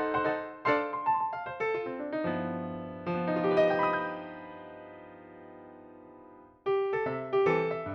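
Background music on a piano-like keyboard: short plucked-sounding notes, then a long held chord that slowly fades before quick notes start again near the end.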